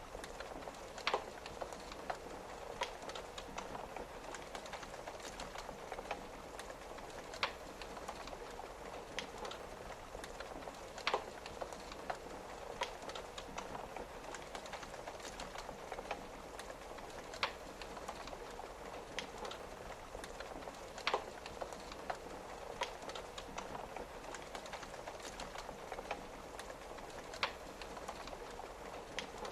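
Wood fire crackling, with small snaps throughout and a louder sharp pop every few seconds, over a steady hiss of rain on a window.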